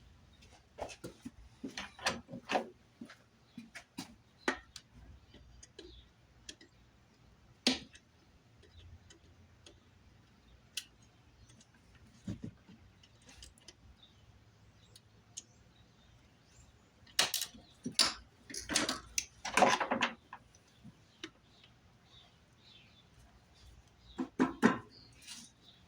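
Scattered clicks, clinks and knocks of hand work, with a louder cluster of clattering knocks a little past halfway and another shortly before the end.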